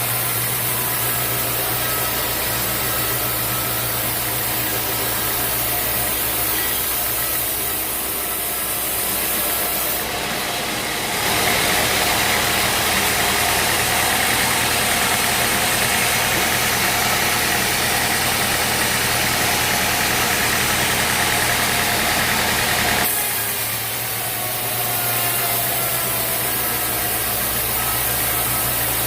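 Sawmill running steadily with an engine hum; about eleven seconds in, a louder hiss comes in and holds for about twelve seconds before cutting off sharply.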